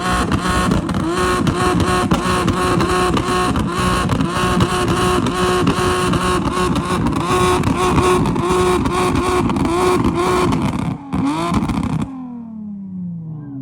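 Car engine revving hard and held at high revs, with quick repeated dips in the note. About twelve seconds in the sound drops off suddenly and the engine note falls away in pitch.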